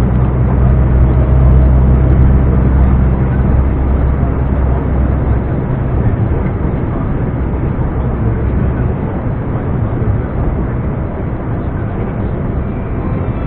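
Scania R420 truck's inline-six diesel engine running while driving, with a deep steady drone. About five seconds in the engine note fades, leaving an even rushing noise.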